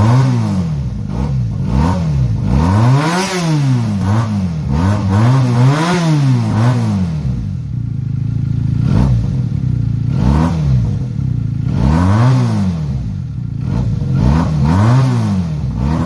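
Benelli BN302S's 300 cc parallel-twin engine, fitted with a Benelli TNT 300 exhaust, revved repeatedly in short blips from idle, each blip rising and falling in pitch, with a steadier idle stretch about halfway through.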